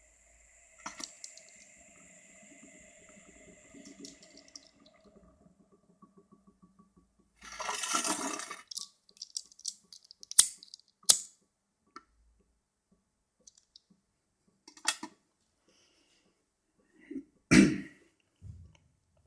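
Glass parts of a Cona vacuum coffee maker clinking and knocking: a short rush of bubbling water about eight seconds in, then several sharp clinks.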